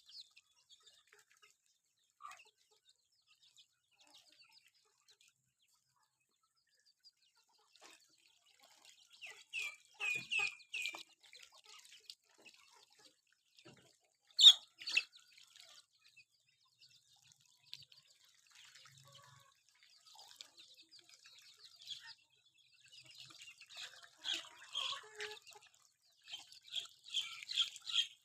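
Village chickens making short, high clucking calls in scattered bunches, busiest in the second half, with one sharp knock about halfway through.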